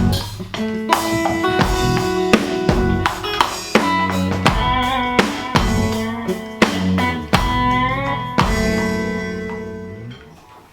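Rock band rehearsing: drum kit, guitar and bass guitar playing a passage together, with a steady beat of drum hits. Near the end they stop on a last hit and the chord rings on and fades away.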